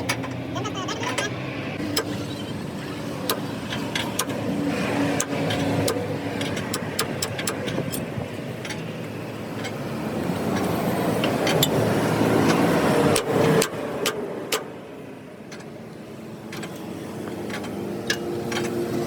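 A motor vehicle engine running, with many sharp metallic clicks and knocks over it; it grows louder in the middle and drops away briefly near the end.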